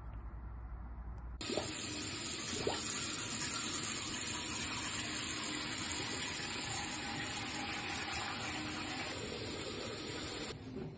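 Water running from a tap into a sink, turned on about a second and a half in and shut off shortly before the end.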